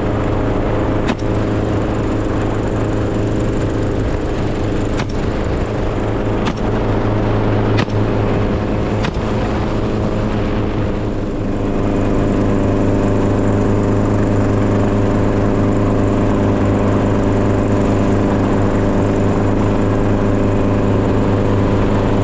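An engine running steadily at an even speed, with a few sharp knocks or clicks in the first half; it gets a little louder about halfway through.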